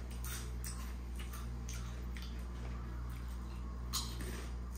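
Crunching of crispy chicharron-style crackling chips being chewed: faint, irregular sharp crunches, the loudest about four seconds in, over a steady low hum.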